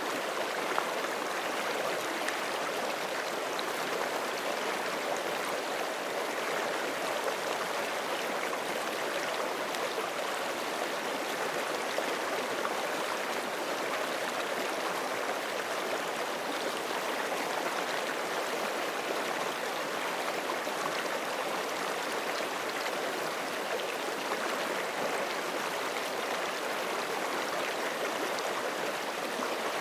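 A forest creek flowing and babbling over rocks, a steady, even rush of water.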